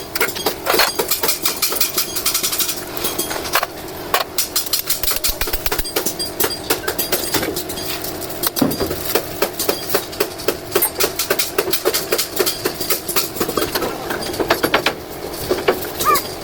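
Metal tools and truck wheel-hub parts clinking and knocking in quick, irregular runs, with one heavier thump a little past halfway.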